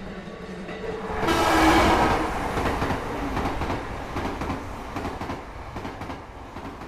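Train running on the rails, swelling to its loudest about a second in and then fading steadily as it moves away.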